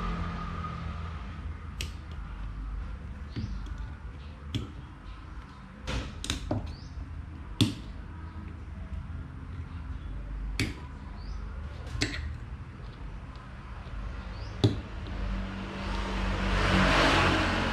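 Scattered light clicks and knocks, about a dozen, of small parts being handled and fitted during fan reassembly, over a steady low hum. A short rush of hissing noise comes near the end.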